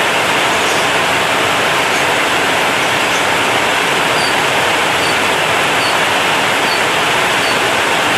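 Heavy rain drumming on a corrugated zinc roof: a loud, steady, dense hiss of drops on the metal sheets.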